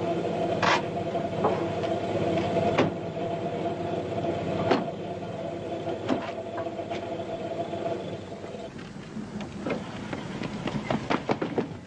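A car engine runs steadily, with a few sharp clicks over it. The engine sound stops about nine seconds in, and a quick run of short knocks or taps follows near the end.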